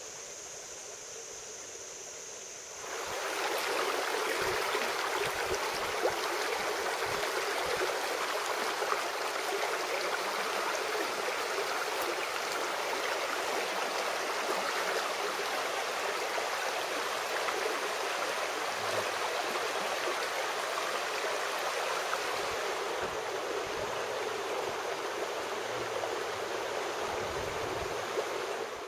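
Flowing stream, a steady rushing of water that comes in suddenly about three seconds in, after a quieter stretch with a faint high steady tone.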